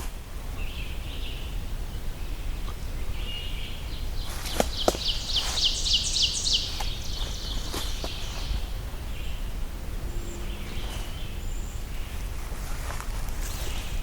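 A songbird sings a rapid high trill of about a dozen evenly spaced notes, lasting about two and a half seconds from about four seconds in. Fainter bird calls come and go over a steady low rumble of wind and woodland.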